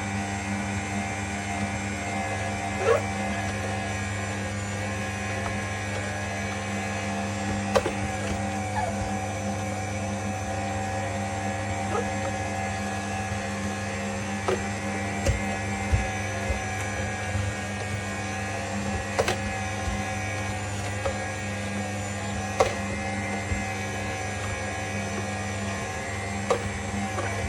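Cold press slow juicer's motor running with a steady hum, with scattered sharp clicks and cracks throughout.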